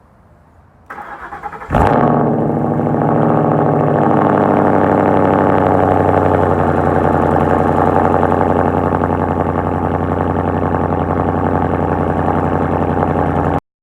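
Cold start of a 2014 Ford Mustang GT's 5.0 V8 through a Roush axle-back exhaust with the resonator deleted: the starter cranks for under a second, the engine catches with a loud burst, then settles into a steady idle. The sound cuts off abruptly just before the end.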